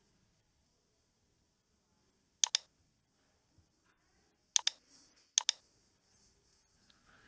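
Computer mouse button clicked in three quick double-clicks, about two and a half, four and a half and five and a half seconds in.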